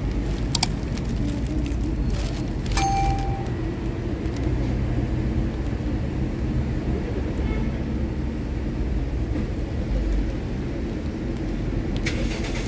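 Steady low rumble of road traffic. A click comes about half a second in, a short flat high tone near three seconds, and a few clicks near the end.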